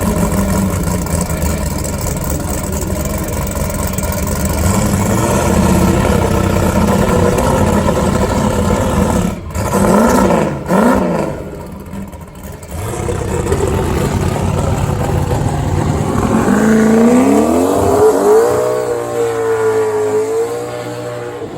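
Drag race car engine running loud, with two quick throttle blips about ten seconds in, then revving up in a rising sweep and holding at high revs near the end.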